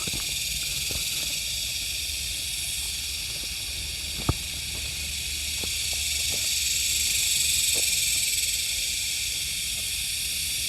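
A steady, high, buzzing chorus of insects, swelling for a few seconds past the middle, with a sharp single click about four seconds in and fainter clicks scattered throughout.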